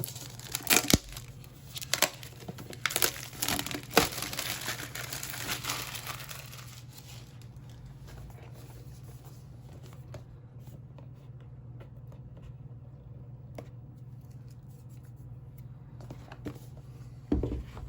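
Product packaging being torn open and crinkled by hand. There are sharp rips and rustling for the first several seconds, then only light, scattered handling noise, with one short burst near the end.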